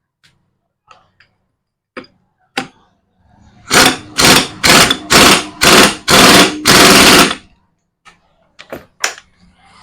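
Impact wrench running the 19 mm nut onto a Honda CB Shine 125's clutch centre. It hammers in about six short rattling bursts, the last one longest, with a few light metal clicks before and after.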